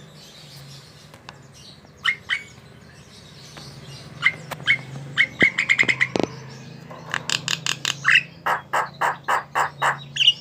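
Javan myna calling, with a few short separate notes, then a cluster of quick notes, and near the end a fast run of sharp notes at about four or five a second, over a steady low hum.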